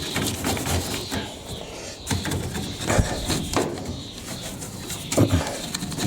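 Scattered knocks and scrapes of hands working on a tumble dryer's metal and plastic parts, with a sharper knock about three seconds in and another about five seconds in.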